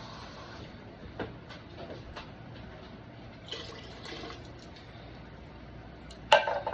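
Water pouring into a soup pot, with scattered small clicks and one sharp clatter near the end.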